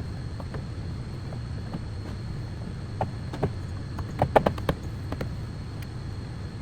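A steady low hum with a few sharp clicks and light knocks, most of them bunched together about four to five seconds in.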